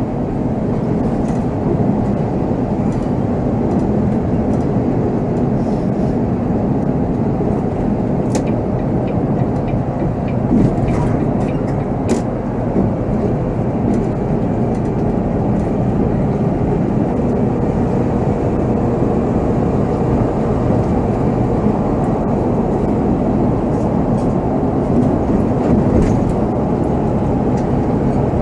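Volvo B7R tour coach under way, heard from the driver's seat: a steady diesel engine and road drone, with a few light clicks and rattles now and then.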